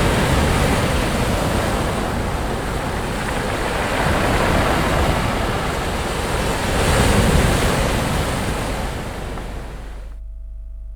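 Sea waves breaking and washing on a beach, a steady surf that swells several times, loudest about seven seconds in. Near the end the surf drops away abruptly, leaving only a faint low hum.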